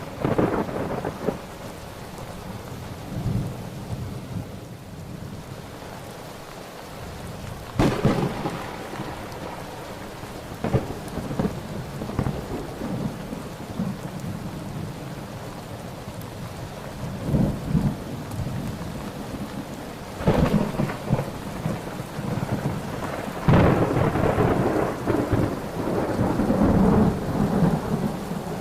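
Thunderstorm: steady rain with repeated claps of thunder, each a sharp crack followed by rumbling. The claps come several times, about a second in, near eight seconds, around twenty seconds, and a long rolling one in the last few seconds.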